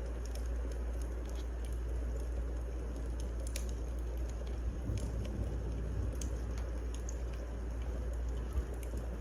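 Wood fire crackling in a fireplace: scattered sharp, irregular pops over a steady low rumble, with a single low thump near the end.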